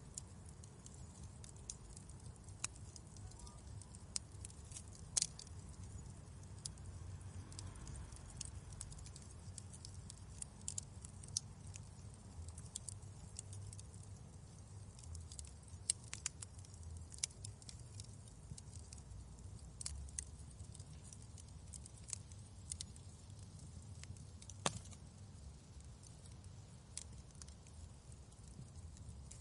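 Wood fire crackling in a fireplace: irregular sharp pops and snaps over a low, steady rumble of the flames, with a few louder pops scattered through.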